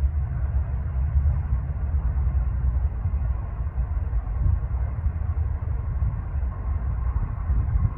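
Distant Cessna 172P light aircraft on approach, its Lycoming O-320 four-cylinder engine heard as a steady, uneven low rumble, with a faint higher drone growing slightly near the end.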